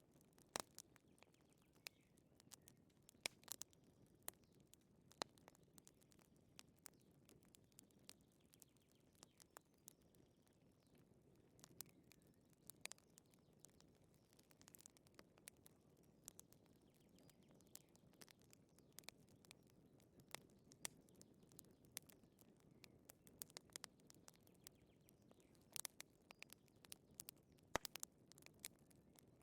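Wood fire crackling softly in a fireplace: irregular sharp pops and snaps over a faint low rush.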